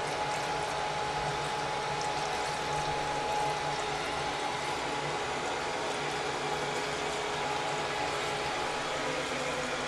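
Crane Radcliffe toilet tank refilling, its fill valve running water steadily with a faint steady tone over the hiss.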